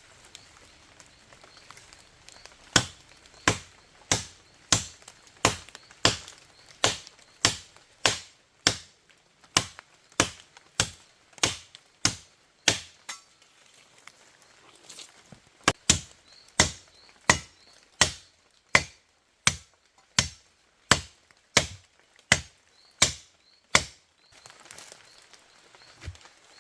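Steady chopping blows of a blade on wood, about one and a half strikes a second, in two runs with a short pause between them.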